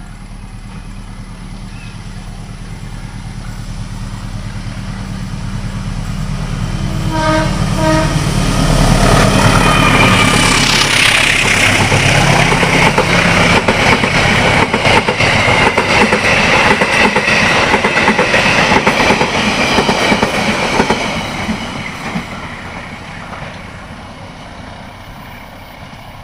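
A train passes on the railway. A diesel locomotive's hum grows as it approaches, and its horn sounds briefly about seven seconds in. The locomotive and carriages then go by with a loud, rapid clatter of wheels over the rail joints, which fades away near the end.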